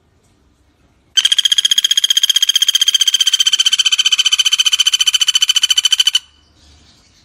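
Common flameback woodpecker (pelatuk bawang) giving a long, rapid, high-pitched rattling call, an even trill of about fifteen notes a second that starts about a second in and lasts some five seconds.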